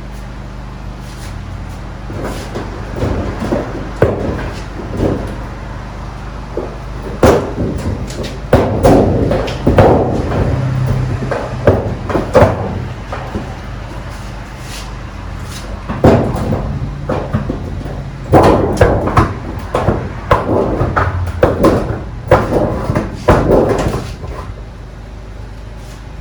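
Irregular metal knocks, clanks and rattles from work on a school bus's riveted sheet-metal ceiling panels, in clusters with short pauses, over a steady low hum.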